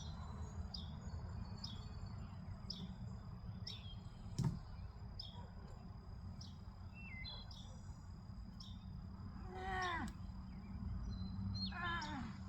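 A bird repeating a short high chirp about once a second over a steady low outdoor rumble. A sharp click comes about four and a half seconds in, and two longer falling calls come near the end.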